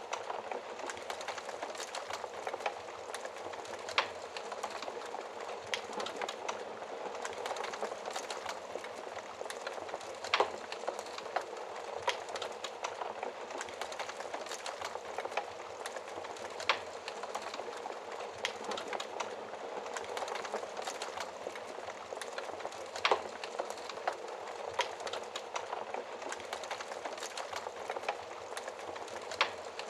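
Wood fire crackling in a fireplace: a steady hiss with many small crackles and a sharper pop about every six seconds.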